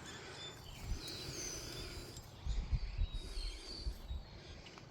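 Outdoor ambience with small birds chirping faintly now and then, over low thumps and rumble, loudest about halfway through.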